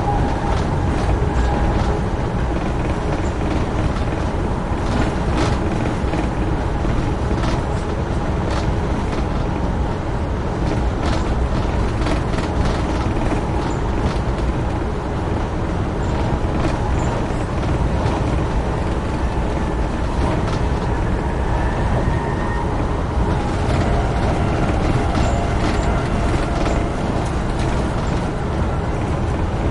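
Amtrak Northeast Regional passenger train running at speed: a steady rumble of wheels on rail with scattered sharp clicks and a faint steady whine.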